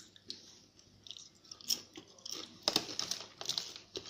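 Close-up crunching and chewing of Doritos tortilla chips: irregular crisp crackles, coming thicker after about a second and a half.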